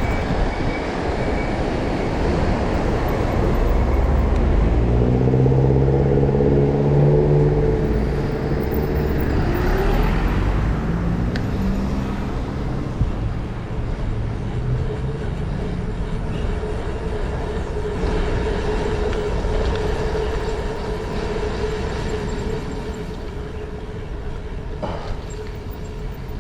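A vehicle running, with steady rumbling noise throughout; an engine note climbs in pitch about five seconds in, and a steady whine sets in around the middle.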